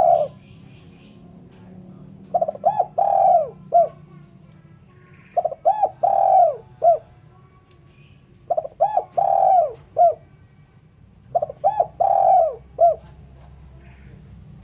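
Spotted dove (terkukur) cooing. The call phrase repeats about every three seconds: a couple of quick coos, one longer drawn-out coo and a short final note.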